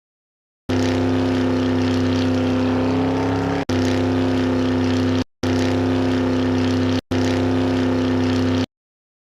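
Engine sound effect: a steady, even motor note that starts abruptly, runs in four stretches split by short cuts, and stops abruptly.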